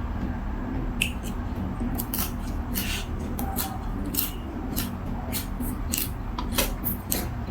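Close-up eating sounds: a quick irregular run of short, crisp crunches and clicks, typical of chewing fresh raw vegetables, over a steady low hum.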